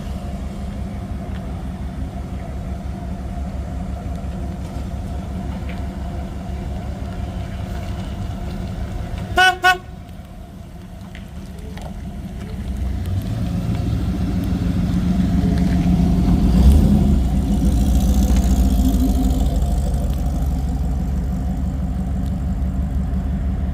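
Classic car engine running with a low, pulsing rumble, cut by two short car-horn toots about nine seconds in. A car engine then grows louder over several seconds as it pulls through.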